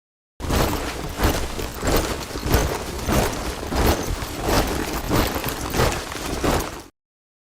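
Soldiers marching in step, their boots striking the ground together in a steady rhythm. It cuts in abruptly just after the start and cuts off abruptly near the end.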